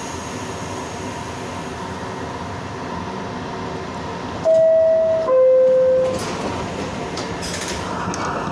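R62A subway car's door chime: two held tones, the second lower, about halfway through and louder than everything else. It sounds over the car's steady interior hum, the signal that the doors are about to close.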